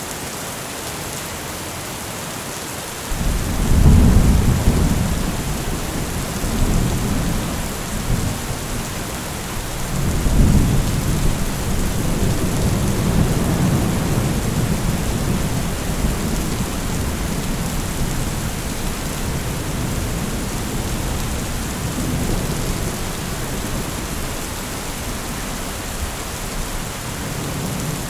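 Heavy rain falling steadily with thunder. About three seconds in, a deep rolling rumble of thunder begins; it swells twice, at about four and ten seconds, and keeps grumbling under the rain.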